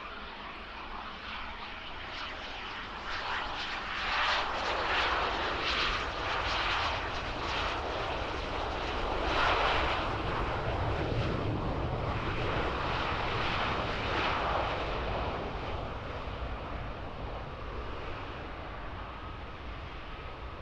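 Jet aircraft engines roaring as a plane passes, building for a few seconds, loudest around the middle, then fading away.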